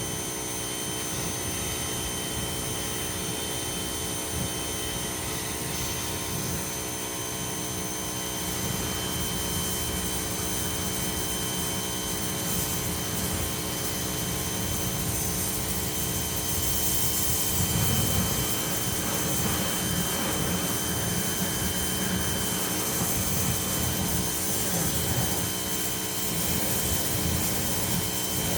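Ryobi 2000 psi pressure washer running steadily, its motor and pump whining under the hiss of the spray; the spray gets louder from about seventeen seconds in.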